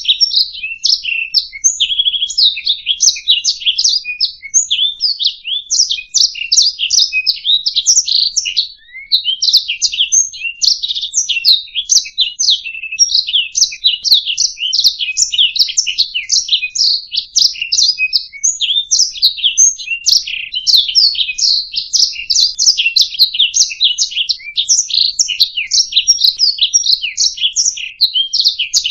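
Domestic canary singing a continuous song of rapid high chirps and trills, with a brief pause about nine seconds in.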